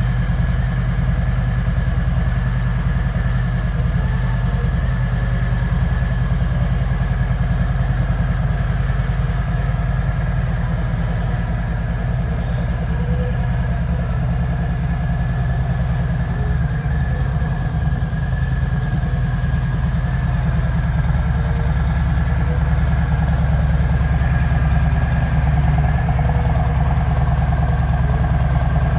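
Harley-Davidson Sport Glide's Milwaukee-Eight 107 V-twin engine idling steadily.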